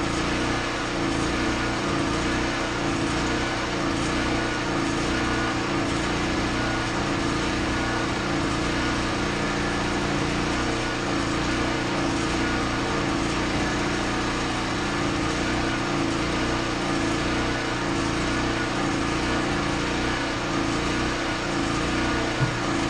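A small engine or motor running steadily at constant speed, with two short knocks near the end.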